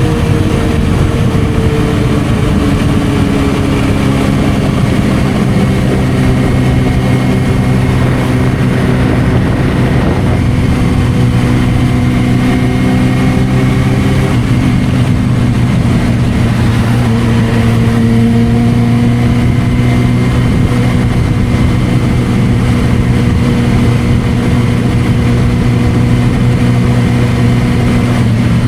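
Suzuki GSR600's inline-four engine through a Dominator aftermarket exhaust, running at low, fairly even revs while riding. The pitch eases down in the first few seconds, shifts slightly around the middle, then holds steady.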